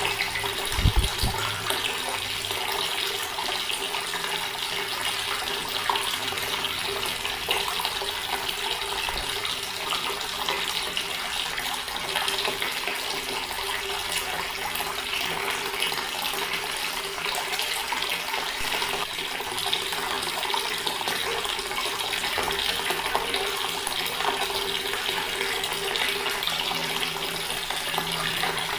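Water running steadily from an outdoor tap in an unbroken stream, with one brief low thump about a second in.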